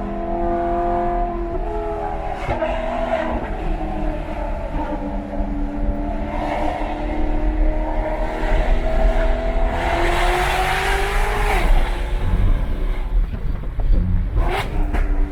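Supercar engine and exhaust running under way over road noise. The note climbs slowly, then drops suddenly about three-quarters of the way through.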